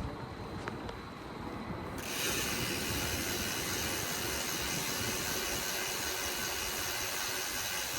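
BMX bike's rear hub freewheel ratcheting while the bike coasts. About two seconds in it becomes a fast, steady, high buzz.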